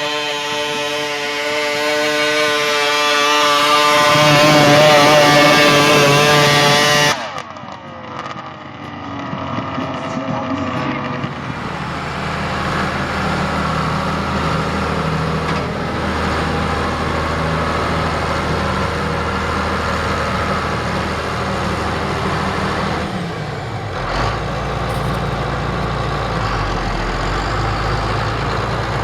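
A loud, held, many-toned sound for the first several seconds cuts off abruptly. Then a heavy vehicle engine, likely a farm tractor's, runs steadily, its low rumble deepening a little past the middle.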